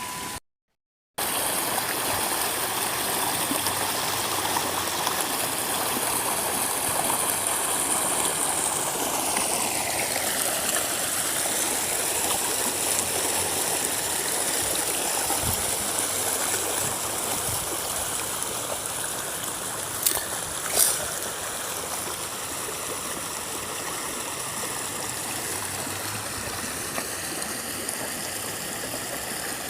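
A stream of water running over rocks, with a steady rushing and splashing. There are two brief clicks about two-thirds of the way through.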